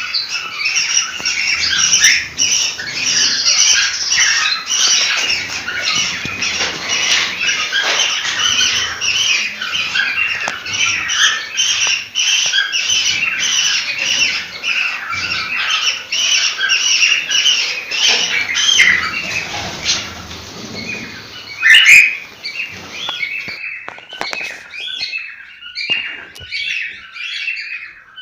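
Many cockatiels calling at once, a dense chatter of squawks and chirps. About 22 seconds in there is one loud call, and after it the chirping thins out.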